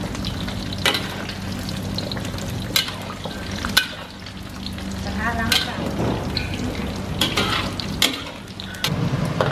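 Washed cashew nuts frying in a little oil in a steel wok: a steady sizzle as the hot oil drives the moisture out of the nuts. A metal spatula scrapes and clinks against the wok now and then as they are stirred.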